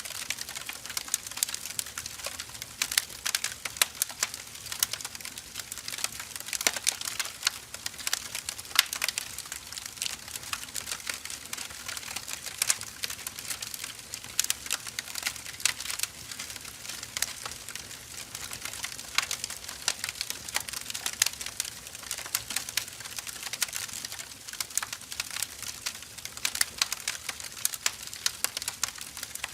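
Burning firewood crackling: a dense, irregular run of sharp pops and snaps over a soft steady hiss.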